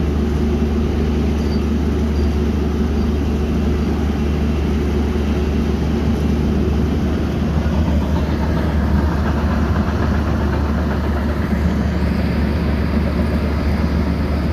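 Heavy earth-moving machinery running steadily: an engine drone with a strong low hum that holds at an even level throughout.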